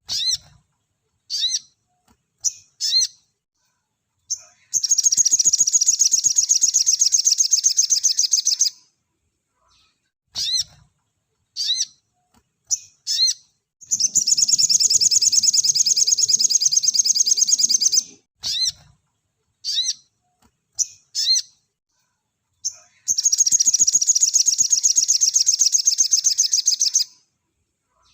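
Crimson sunbird (sogok ontong) singing: short sharp chirps between three long, very fast, high-pitched trills of about four seconds each.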